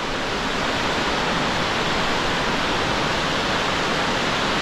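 Waterfall in heavy flow after rain, a steady roar of falling water.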